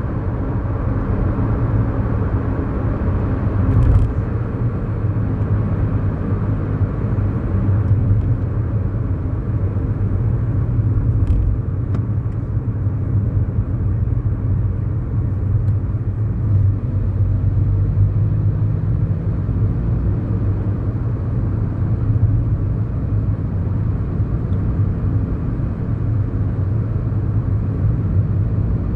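Inside the cabin of a 2011 Kia Morning, its 999 cc four-cylinder engine running at a steady cruise, with a continuous low tyre and road rumble. A few faint short clicks come through, and a slightly higher steady engine tone joins about eighteen seconds in.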